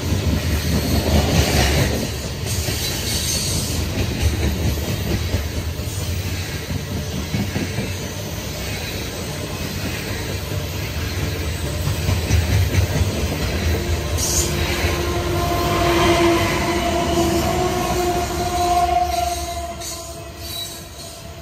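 Loaded coal hopper cars of a freight train rolling past with a steady clatter of steel wheels on the rails. In the second half a steady squeal from the wheels joins in and holds for several seconds.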